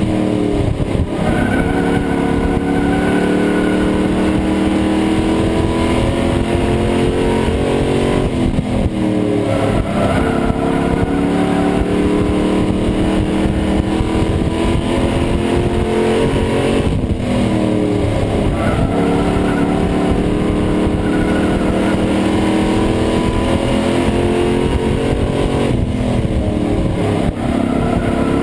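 Pro Truck racing engine at full throttle, heard from inside the cab. The pitch climbs slowly, then drops briefly about every eight to nine seconds as the driver lifts for the turns, with a constant rumble and rattle underneath.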